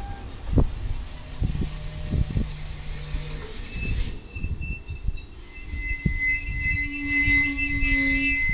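Aoimori Railway 701-series electric train pulling in and slowing, its wheels knocking over the rail joints with several clunks. From about four seconds in, a high steady squeal of the wheels and brakes rises as it draws to a stop.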